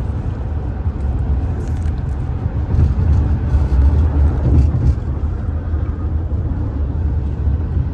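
Car road and engine rumble heard from inside the cabin of a moving car: a steady low rumble, a little louder near the middle.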